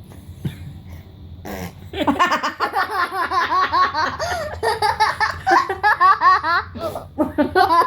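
A young child laughing in a long run of quick, high-pitched peals, starting about two seconds in, with a short break and another burst near the end.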